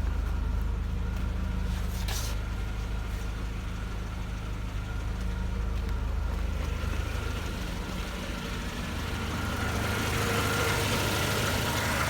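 Mercedes-Benz M111.970 2.3-litre four-cylinder petrol engine idling steadily, with a short click about two seconds in and a brighter hiss near the end.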